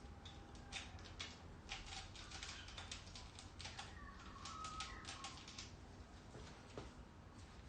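Faint, irregular light clicks and taps of hand tools and small metal engine parts being handled while an engine is taken apart.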